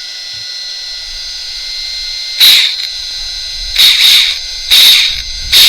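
Brushless motor of an RC short-course truck revved in four short whirring bursts through a drivetrain whose centre differential has just been destroyed.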